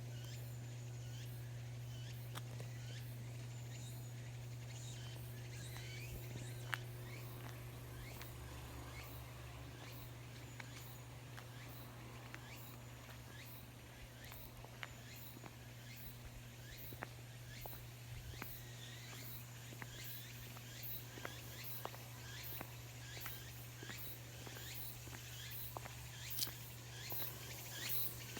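Cicadas singing, a faint high pulsing buzz that grows stronger near the end, with scattered footsteps and a steady low hum underneath.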